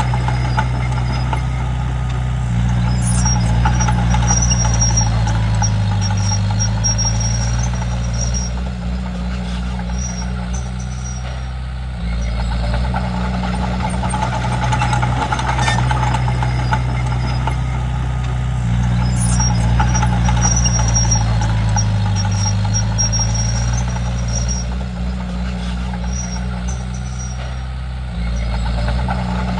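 Komatsu D31P bulldozer's diesel engine running steadily at working load, its pitch sagging and recovering twice as it works. Thin high squeals come and go over it.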